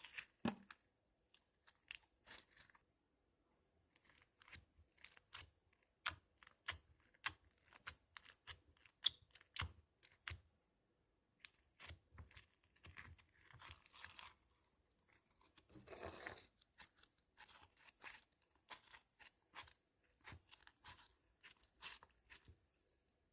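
Crunchy slime being squeezed and pressed by hand, giving quick, irregular clusters of sharp crackles and pops, with short pauses about four and eleven seconds in.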